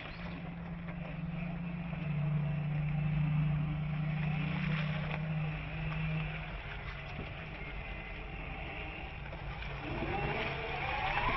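Electric Land Rover Defender driving, with steady rolling noise and a low steady hum that fades out about two-thirds of the way through. Near the end an electric motor whine rises in pitch as it speeds up.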